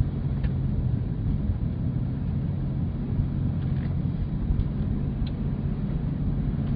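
Chevy Blazer's engine and tyre noise heard from inside the cabin while driving: a steady low rumble with an even hum.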